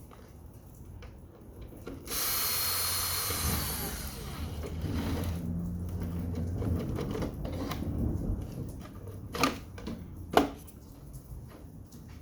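Power drill spinning out a screw from the air conditioner's housing: a loud high-pitched whir for about a second and a half, then a lower steady run for a few seconds. Two sharp knocks follow near the end.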